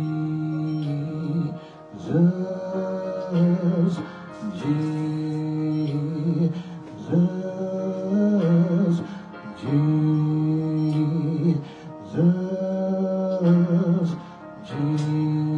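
Slow gospel worship music: long held notes of about two seconds each that slide up into pitch and waver at their ends, repeating in a slow, even pattern.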